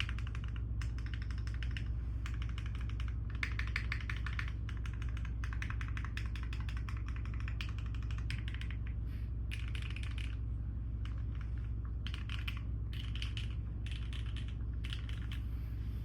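Typing on a mechanical keyboard with Nixie switches in an aluminium Kohaku case: runs of fast keystrokes broken by short pauses, the pauses longer and more frequent in the second half. A steady low hum sits underneath.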